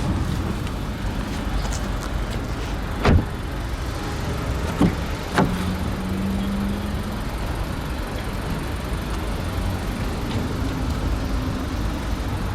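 Car doors of a 2015 Volkswagen Golf being worked, giving three thuds: a loud one about three seconds in and two lighter ones a couple of seconds later. A short steady hum follows the last thud, over a steady low rumble.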